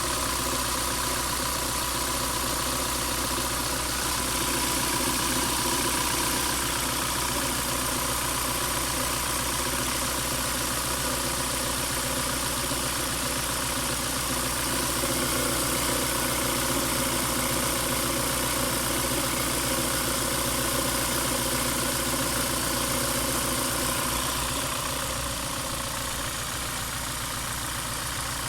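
Engine idling steadily, an engine whose owner complains that it shakes, a rough idle.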